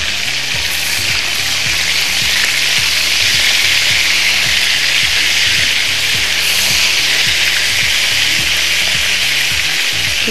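Kebabs frying in hot oil in a nonstick pan, a steady sizzle.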